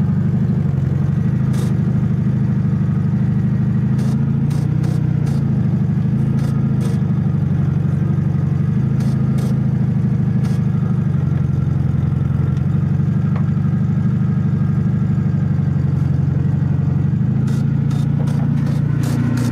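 Volkswagen Super Beetle's air-cooled flat-four engine running steadily as the car rolls slowly along, freshly revived after some 30 years sitting, with scattered light clicks over it. The revs rise a little near the end.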